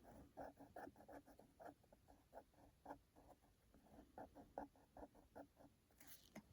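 Faint, quick scratching strokes of a fine-tip Micron pen on paper, about four a second, as a small area of the drawing is filled in.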